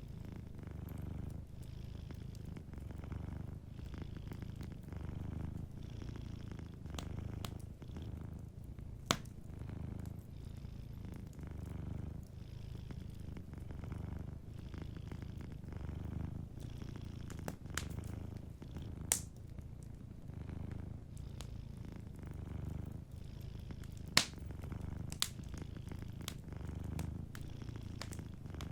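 A domestic cat purring steadily, the low purr swelling and fading in slow pulses. Over it, a wood fire gives a few sharp crackling pops, the loudest about nine, nineteen and twenty-four seconds in.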